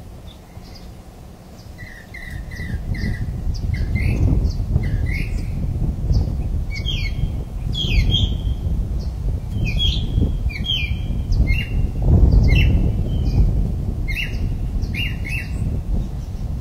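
Birds calling with many short chirps and quick falling whistles, growing busier after the first few seconds, over a constant low rumble.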